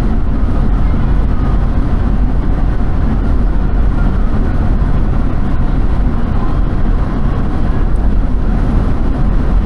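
Steady low rumble of a vehicle on the move, unbroken and even in level.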